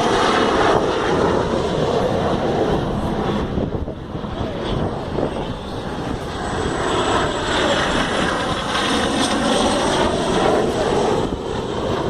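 Snowbirds CT-114 Tutor jets passing low overhead, their jet engine noise swelling and fading as the aircraft go by, easing about four seconds in and building again as more come over.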